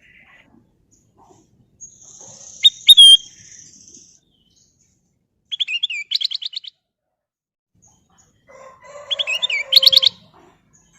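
Kutilang emas, a bulbul, singing in three short bursts of whistled notes. The first comes about three seconds in, a rapid trill of notes around six seconds, and a louder, busier trilled phrase near the end.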